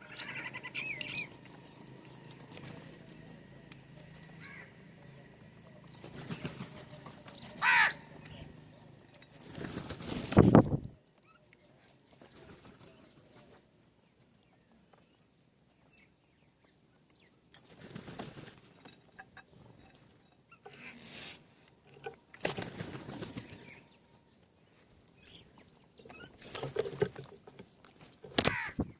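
Birds at a feeder: bursts of wing flapping as birds come and go, with a few short calls. The loudest flutter is about ten seconds in, with another cluster a little past the middle, and quiet stretches between.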